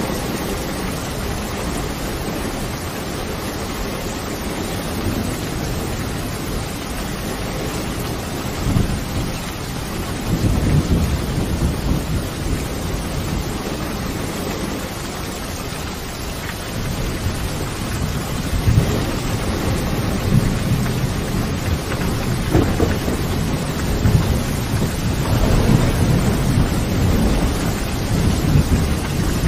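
Steady rain with low rolling thunder that swells up about ten seconds in and again through the second half.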